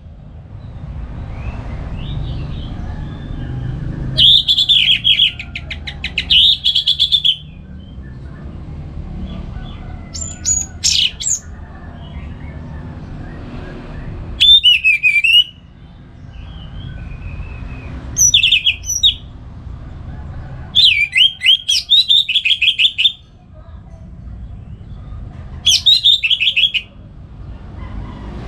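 Orange-headed thrush singing: about seven loud, short phrases of rapid trills and sweeping whistles, a few seconds apart, over a steady low background rumble.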